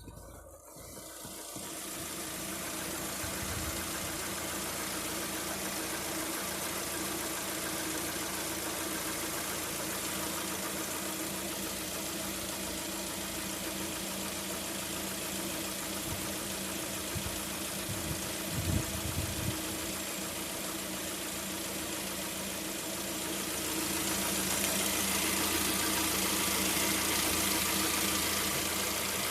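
Lada Vesta's 1.6-litre four-cylinder petrol engine idling steadily, with the floating knock that the owner takes for piston knock. The sound grows louder near the end.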